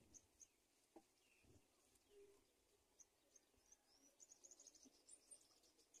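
Near silence with faint, high-pitched bird chirps scattered through, including a quick run of them about four seconds in, and a soft knock about a second in.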